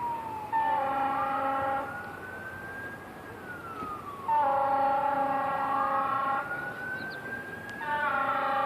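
Approaching fire engine's siren wailing, slowly rising and falling in pitch, broken three times by long blasts of its horn.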